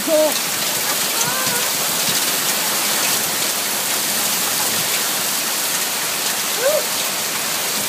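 Heavy rain pouring down in a steady, dense hiss, with a few sharper ticks of impacts.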